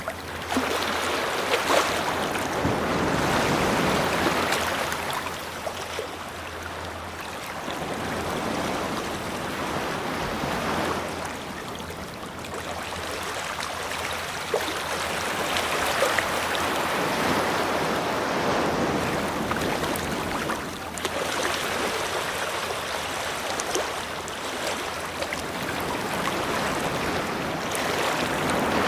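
Ocean waves washing onto a beach. The surf noise swells and ebbs in slow surges every several seconds.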